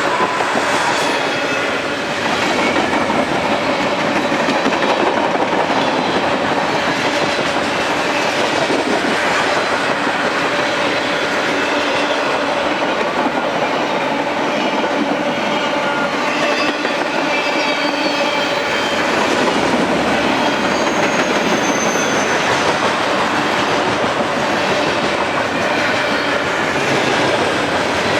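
Freight train cars of a mixed manifest rolling past close by: a steady, loud rumble of wheels on rail with clickety-clack over the joints and faint high wheel squeals now and then.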